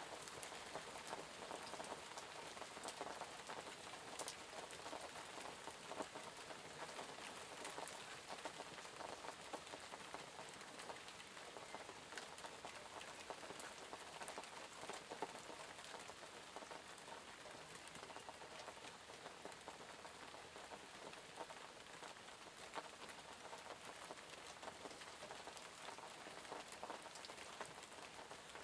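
Gentle rain pattering steadily, with many small drop ticks and a few louder individual drops.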